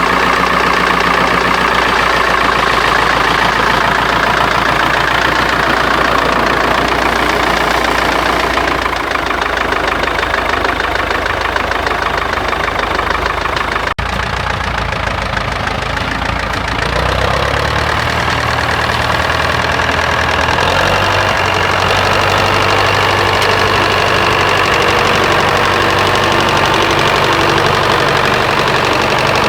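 Gas-start diesel tractor engine idling steadily after being switched over from gasoline starting to diesel running, with a knocking diesel run. Its low note shifts about halfway through.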